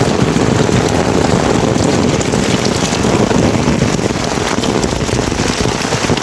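Heavy rain falling steadily, a dense, close patter of drops hitting a surface.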